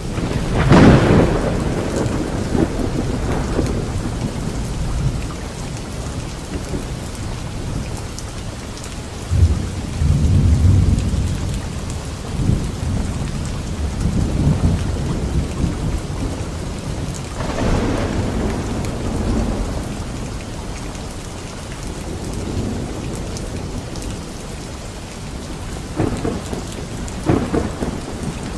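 Steady heavy rain during a thunderstorm, with repeated thunder: a loud clap about a second in, a deep low rumble a little before the middle, another clap past the middle, and a pair of sharper cracks near the end.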